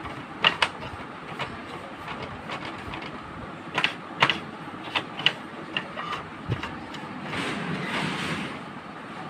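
Sharp clicks and knocks of hard plastic parts being handled during work on an inkjet printer's casing, about a dozen irregular strikes, with a longer scraping rustle about three-quarters of the way through.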